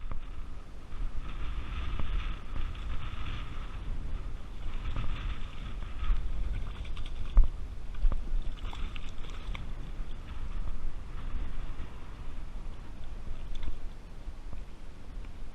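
Strong wind buffeting the microphone as a steady low rumble. A thinner, higher sound comes and goes in stretches of a second or two, and there is one sharp knock about seven seconds in.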